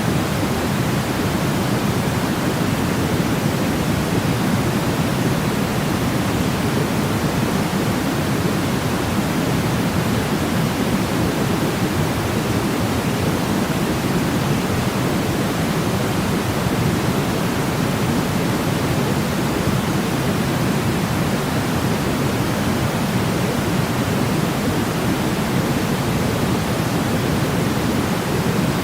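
Steady, unchanging white noise for sleep, weighted toward the low end like pink noise, with no rhythm or breaks.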